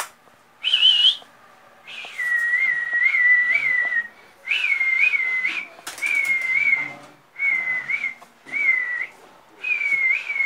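A person whistling a warbling tune in a series of short phrases, each one to two seconds long, with brief pauses between them.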